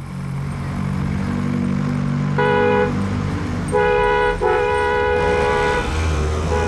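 Road traffic with vehicle engines running and a vehicle horn honking three times, two short honks and then a longer one.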